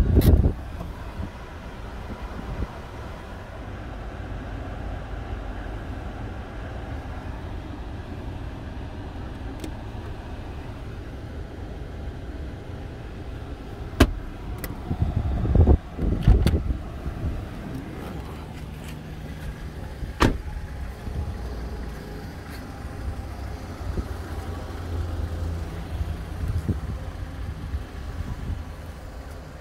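Toyota RAV4 engine idling with a steady low hum. Midway there is a sharp click, a couple of heavier knocks and then another click, as the centre console and armrest lid are handled.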